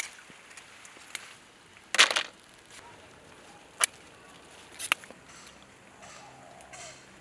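Scissors snipping through succulent flower stalks: about five short, sharp snips and crunches a second or so apart, the loudest a longer crunch about two seconds in.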